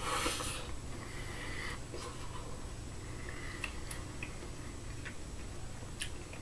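A mouthful of rice taken off a utensil and chewed quietly, with a few faint clicks, over a low steady hum.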